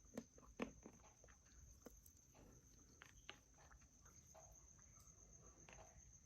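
Near silence: a few faint clicks and soft taps from eating soaked garri, over a faint steady high tone.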